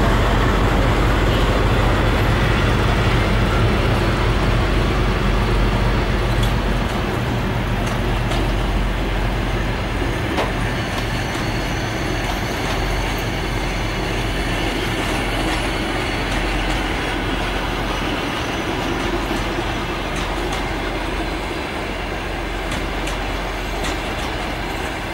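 Passenger coaches of a departing train rolling past: a steady rumble of wheels on rail, slowly fading, with faint clicks and a thin high wheel squeal from about halfway.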